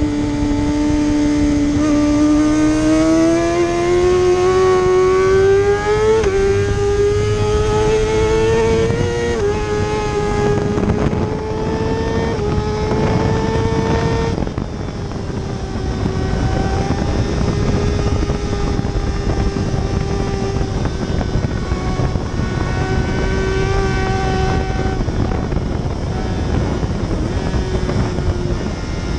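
Superbike engine at racing speed, revs climbing and breaking twice for upshifts in the first ten seconds, then held at fairly steady high revs, with constant wind and road noise.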